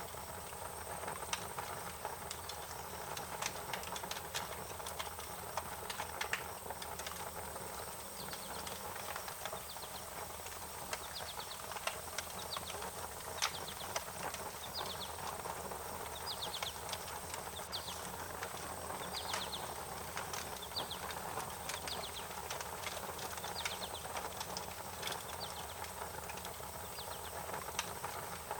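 Wood fire crackling, with scattered sharp pops over a steady hiss. From about eight seconds in, a bird repeats short, high, falling chirps.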